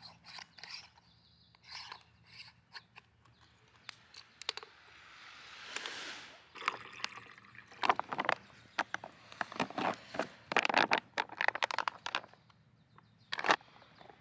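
Camping gear being handled: a run of clicks, knocks and scrapes, thickest in the second half, with a brief rush of noise that swells and fades about six seconds in.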